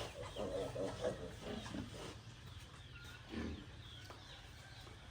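Farm animals calling: a run of short calls over the first two seconds, then one more about three and a half seconds in.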